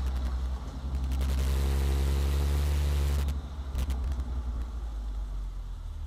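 Volkswagen Golf Mk5 R32's 3.2-litre VR6 engine and exhaust running at a steady engine speed with a deep, even drone. About three seconds in the throttle eases off and the sound drops to a quieter low rumble.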